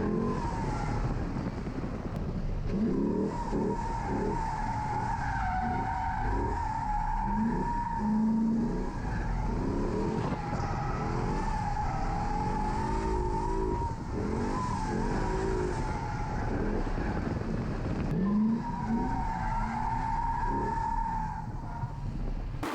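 C6 Corvette's LS V8 drifting: the engine revs rise and fall over and over as the throttle is worked, under a wavering tire squeal that drops out briefly about three-quarters of the way through.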